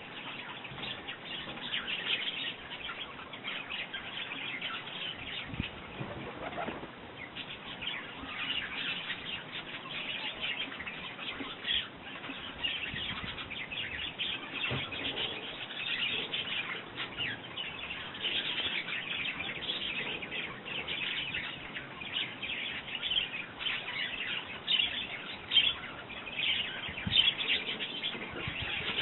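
A flock of house sparrows chirping continuously around a garden mealworm feeder, with the flutter of wings as birds come and go; the chirping grows louder near the end.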